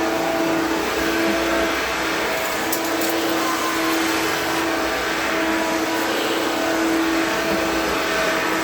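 1970s Hoover Dial-O-Matic power-drive upright vacuum cleaner running steadily, its motor holding a steady whining hum, with a few light ticks about three seconds in.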